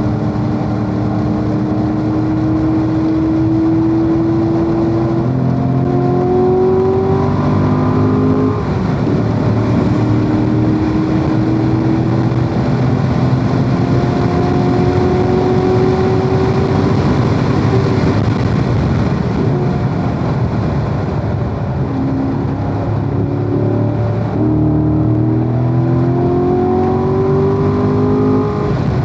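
Corvette V8 running at track speed, its pitch climbing through the revs and dropping back at quick upshifts, in clusters about a quarter of the way in and again near the end, with longer slow pulls between. Steady wind and tyre noise runs underneath.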